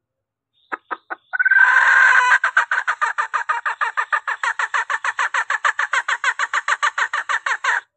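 Female junglefowl call used as a hunting lure to draw males: three short notes, then a drawn-out squawk about a second long, then a fast run of clucks, about six a second, that stops suddenly.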